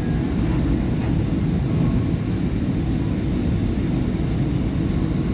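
SEPTA Market-Frankford Line train running, a steady low rumble of motors and wheels on the rails.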